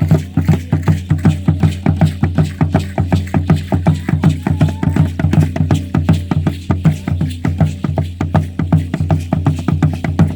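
Drum beaten in a fast, steady rhythm, about four strokes a second, each stroke with a deep ringing tone: the beat of a Mexica ceremonial dance.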